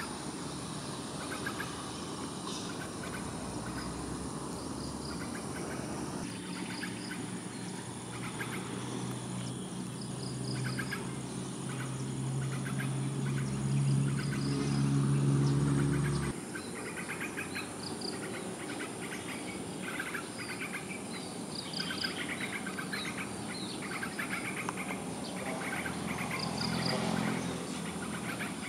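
Yellow-vented bulbul and other birds giving short, repeated chirping calls over a thin, steady high whine. A low hum swells in the middle and cuts off sharply about sixteen seconds in.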